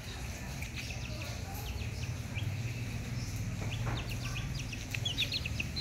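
Small birds chirping: a quick series of short high chirps, busiest in the second half, over a steady low hum.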